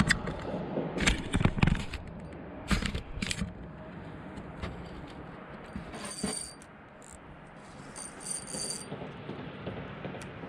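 A handful of sharp metallic clicks and rattles from gear being handled in a small fishing boat, bunched in the first few seconds. After that it goes quieter, with two short, faint high-pitched tones later on.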